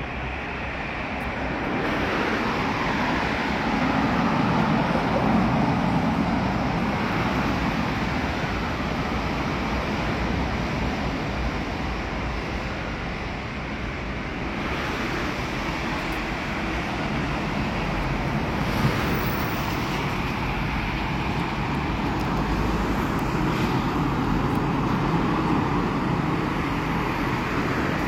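Commuter electric train running: a steady rumble of wheels and running gear that swells about two seconds in, eases a little midway, then builds again.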